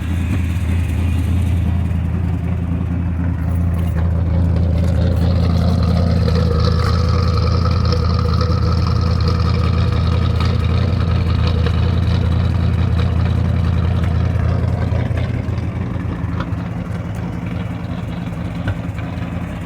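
Engine of a long-parked vehicle running, its revs held up for about ten seconds, then settling back toward idle while it clears out after sitting.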